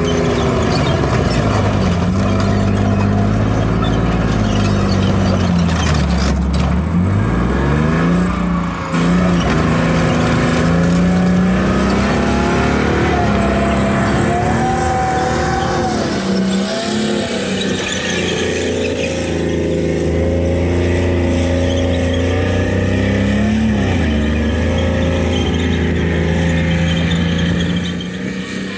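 A heavy vehicle's engine running hard, its pitch rising and falling over and over as it revs and drives, with a sharp knock about six seconds in. It eases off near the end.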